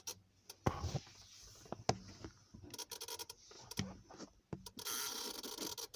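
Ignition key being turned in a 2008 Honda CR-V's ignition switch: several separate clicks, then a scratchy, crackling buzz for about a second near the end. The mechanic takes this for some kind of voltage drop or contact issue in the ignition switch.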